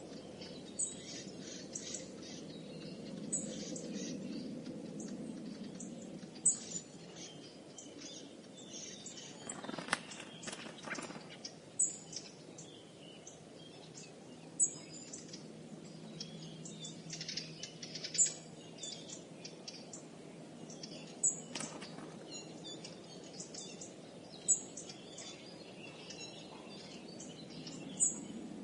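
Binaural recording of birds chirping and calling, with a sharper high call standing out about every three seconds over a low steady background noise.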